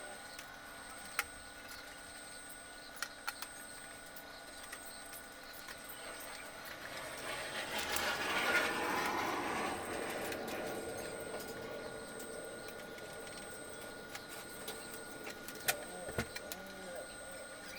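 Steady faint background hum with a thin high tone, a few small sharp clicks, and a rush of noise in the middle that swells for a few seconds and then fades.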